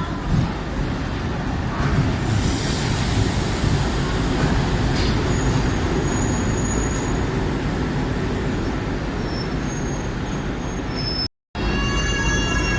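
Train rolling along the station, a steady loud rolling noise with brief high-pitched wheel squeals. Near the end the sound drops out for a moment, then comes back with a squeal of several tones at once.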